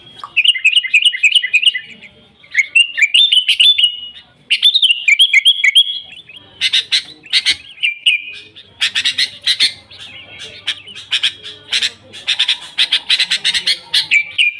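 Sooty-headed bulbul (kutilang) singing at full volume: three short bouncy warbled phrases of rising-and-falling notes with brief pauses between them, then from about six seconds in a fast, dense run of short chattering notes.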